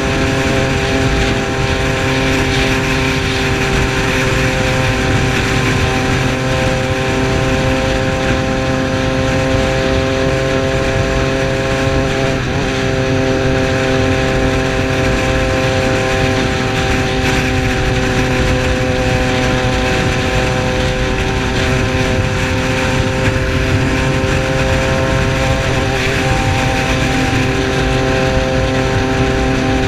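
Triumph Street Triple's 675 cc three-cylinder engine running at steady cruising revs while riding, a constant engine note over a steady rushing noise. The pitch dips slightly about 12 seconds in and again near the end.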